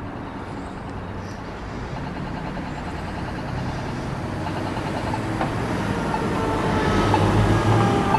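Fire apparatus approaching: heavy engine and road noise growing steadily louder, with a siren's tone coming in about six seconds in and sliding slowly down in pitch.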